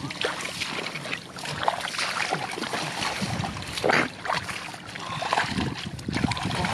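Muddy water splashing and sloshing in irregular strokes as people wade and grope for fish in a flooded rice-field paddy.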